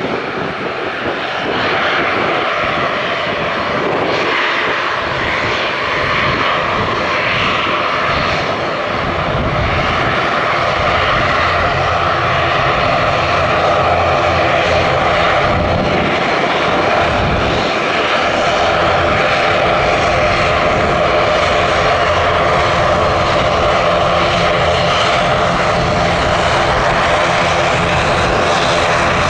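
Airliner engines running steadily with a hum of several steady tones, growing a little louder over the first ten seconds.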